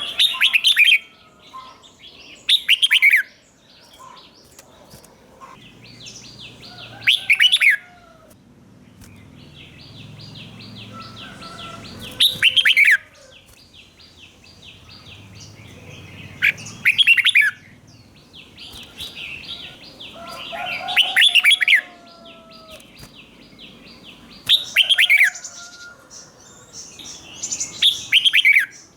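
Red-whiskered bulbul singing short, loud, fluty phrases about every three to four seconds, eight in all, in the repeated 'double' (berl) song style. A faint, steady, high buzz runs behind them through the middle.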